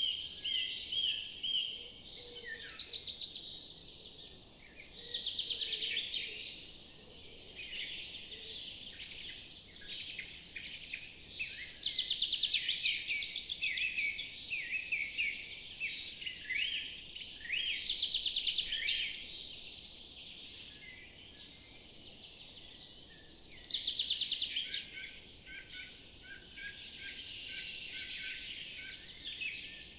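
Several birds singing and calling at once, with a loud rapid trill that recurs about every six seconds among shorter chirps and whistles.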